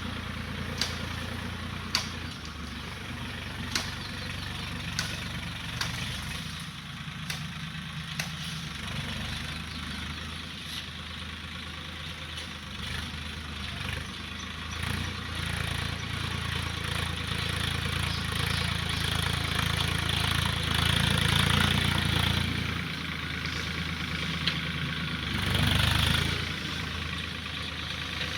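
Swaraj tractor's diesel engine running steadily, growing louder twice in the second half. Sharp clicks or knocks come about once a second in the first eight seconds.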